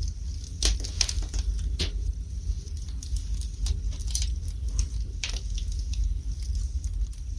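Fire burning in a fireplace, crackling with sharp pops at irregular moments over a steady low rumble.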